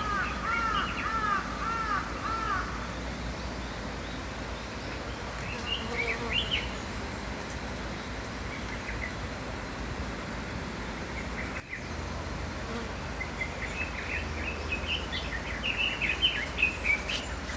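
Small songbirds chirping over the steady rush of a flowing stream. A run of about six quick, arched notes opens it, a few scattered chirps come around the middle, and a busier burst of chirping comes near the end.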